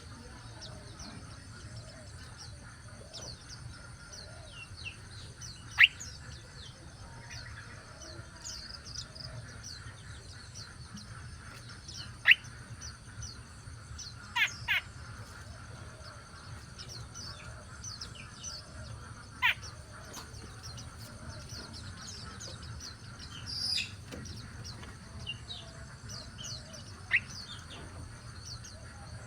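Small birds chirping: many faint, quick high twitters throughout, with a handful of sharp, louder single chirps every few seconds, one of them given twice in quick succession. A steady low hum runs underneath.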